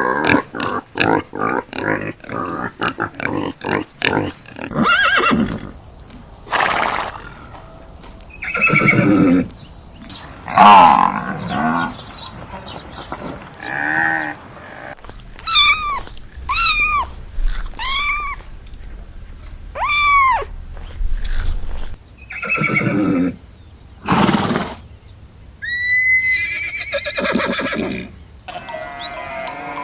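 A series of different animal calls, cut one after another: a fast run of clicks at first, then assorted cries, four arching calls in a row midway, and a few falling chirps near the end.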